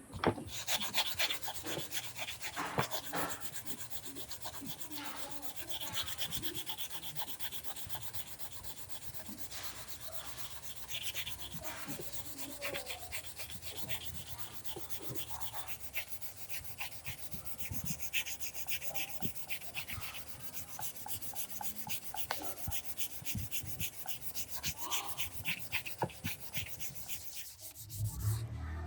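Sandpaper rubbing back and forth over the repaired plastic, rapid, scratchy, repeated strokes.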